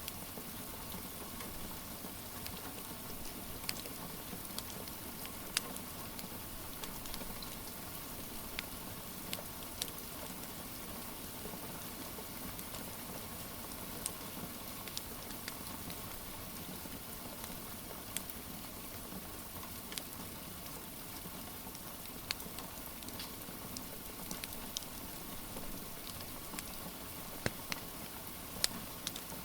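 Steady rain hiss with a wood fire crackling: sharp, irregular pops every second or two over the even wash of rain.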